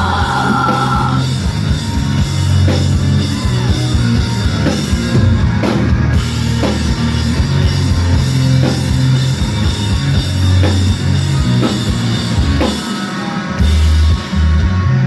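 Rock band playing live, an instrumental passage of guitars, bass and drums with no singing, a drum hit landing about once a second over a heavy, booming low end.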